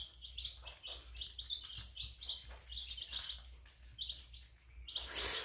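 Chicks peeping continuously, short high peeps several times a second. A brief hiss-like noise comes about five seconds in.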